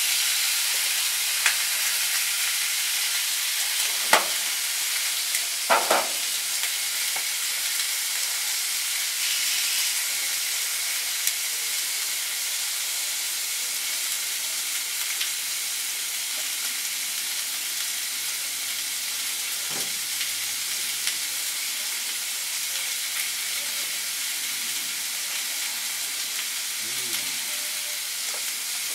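Chicken wings sizzling meat side down on a very hot, oiled grill, a steady frying hiss. A few sharp knocks come in the first six seconds, and one more near the twenty-second mark.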